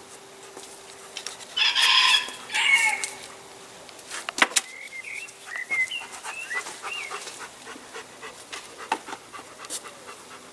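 Loud bird calls, two in quick succession about two seconds in, followed by a sharp click and then faint, quick high chirps.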